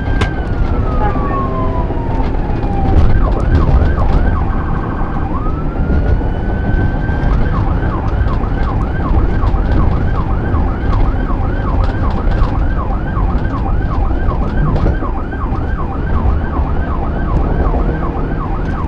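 Police car siren during a pursuit: a falling wail, a brief fast warble, a rising wail, then a rapid yelp cycling about three times a second, over steady low road and engine noise.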